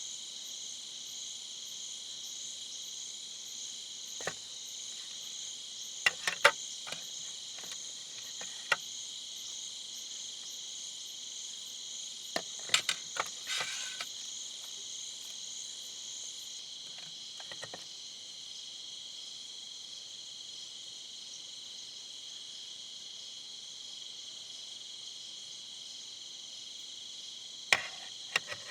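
A steady, high-pitched chorus of insects trilling, with a fine pulsing rhythm. Scattered short knocks and clicks come through it, a cluster about 6 seconds in, another around 13 seconds, and a couple near the end.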